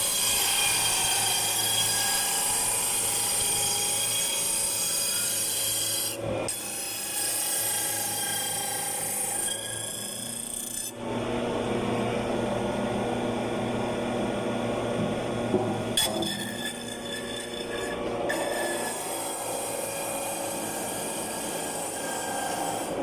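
Sawdust-making machine running, chewing waste wood into sawdust: a steady machine whine with rasping and grinding. The sound breaks off briefly about six seconds in and changes abruptly about eleven seconds in.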